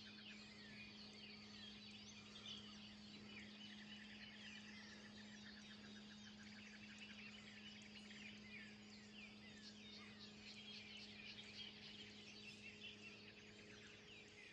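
Faint dawn chorus: many birds chirping and calling at once, with a fast trill around the middle. A steady low hum runs underneath.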